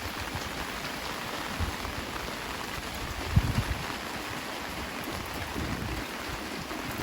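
Heavy rain falling steadily, with a few short low thumps, the loudest about three and a half seconds in.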